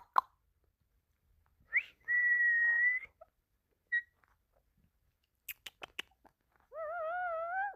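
Pet green parrot whistling: one steady high whistle held about a second, a few sharp clicks, then a wavering, warbling call near the end.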